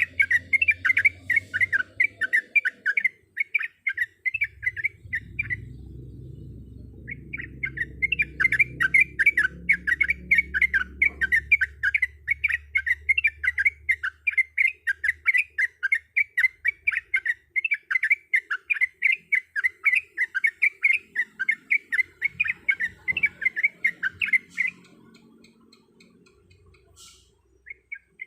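Yellow-vented bulbul (trucuk) singing a fast, chattering run of repeated notes, about five a second. The run breaks off for a few seconds near the start and stops again near the end. A low rumble runs underneath for several seconds in the first half.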